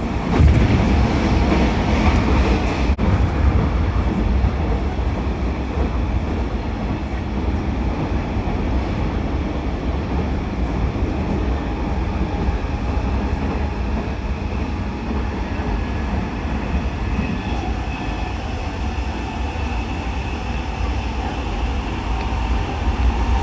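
Hanshin Railway electric train running, heard from inside the passenger car: a steady low rumble of wheels on track, with one sharp click about three seconds in and a faint steady high whine coming in during the second half.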